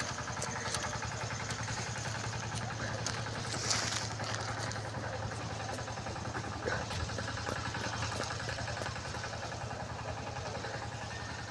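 A motor running steadily with an even hum, and a few faint clicks over it.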